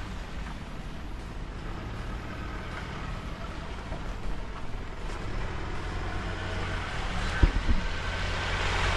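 Vehicle engine running with a low steady drone, with a couple of knocks about seven and a half seconds in.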